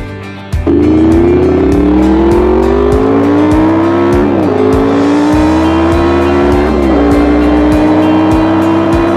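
Honda VFR800's V4 engine pulling hard under acceleration, its note climbing steadily, with two quick dips in pitch as it shifts up a gear, each following gear rising more slowly. Background music with a steady beat plays underneath.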